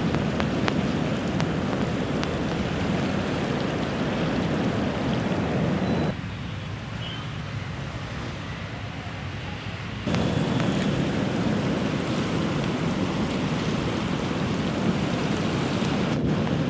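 Steady rushing roar of the flooded Bagmati river's fast brown water. It drops suddenly to a quieter rush for about four seconds in the middle, then comes back at full strength.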